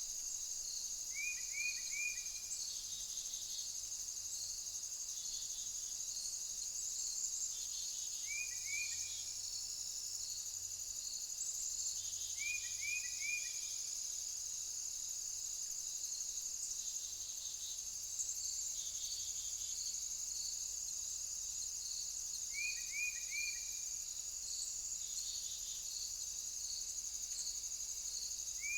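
Crickets or similar insects trilling steadily at a high pitch. A separate short call of three quick, falling chirps cuts in about five times, every four to ten seconds.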